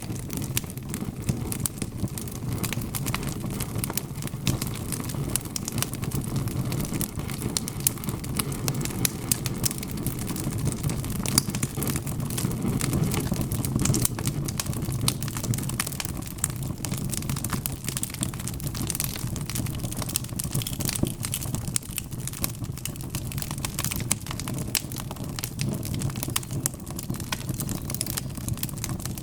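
Wood fire crackling, with frequent small sharp pops and snaps over a steady low rumble of burning.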